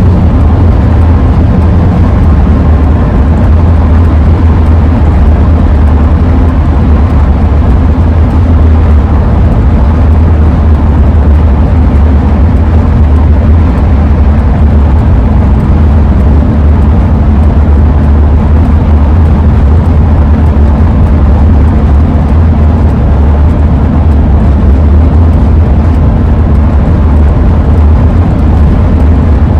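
Cabin noise of a 2001 Ford E-350 van driving at steady speed: a loud, even low rumble of road, tyre and wind noise that holds unchanged throughout.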